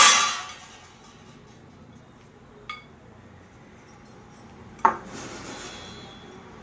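Kitchen utensils and dishes clinking: a loud clatter right at the start that fades quickly, a single short ringing clink a little under three seconds in, and a knock near five seconds.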